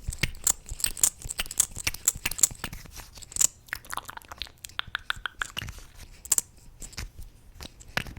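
Close-miked ASMR mouth sounds: a rapid, irregular run of wet mouth clicks and smacks.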